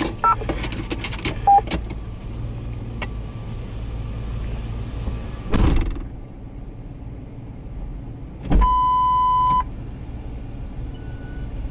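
Steady low vehicle rumble under two-way radio noise: a few clicks and short chirps at the start, a short burst of static about halfway, then a steady beep of about one second.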